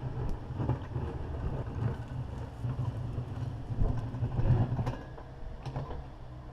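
Takeuchi TB260 excavator's diesel engine working under varying load, with irregular sharp knocks as the bucket works on broken concrete. It is loudest about four to five seconds in.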